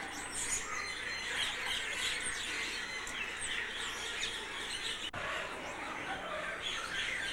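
Many birds chirping and calling at once: a dense, busy twittering of short high chirps, with a brief break about five seconds in.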